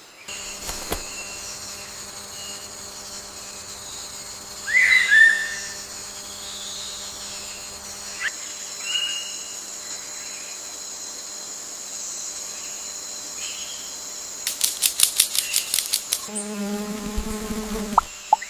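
Forest ambience: a steady high insect drone, with a few short bird chirps. Near the end there is a rapid run of ticks, about eight a second, and then an insect buzzes.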